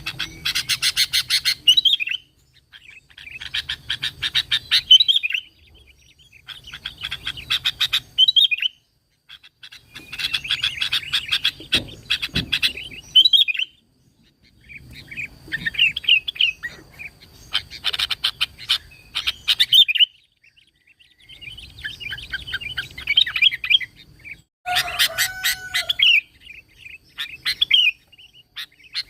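Sooty-headed bulbul (kutilang) singing. It repeats a short phrase about eight times with brief pauses between. Each phrase is a quick chattering run that ends in a down-slurred whistled note.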